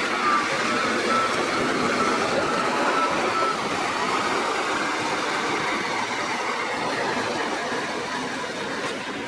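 Heavy construction machinery running, its diesel engine giving a steady, noisy rumble, with a faint whine in the first few seconds that fades out. The level eases off slightly toward the end.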